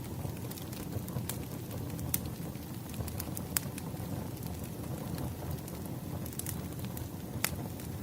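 Firewood burning: a steady low rush of flame with scattered sharp crackles and pops, a few standing out louder than the rest.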